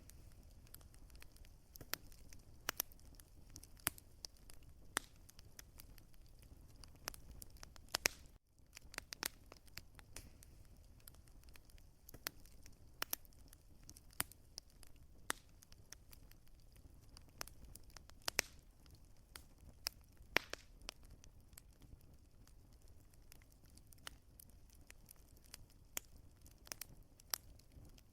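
Wood fire crackling: frequent irregular sharp pops and snaps over a low, steady rumble. It cuts out for an instant about eight seconds in.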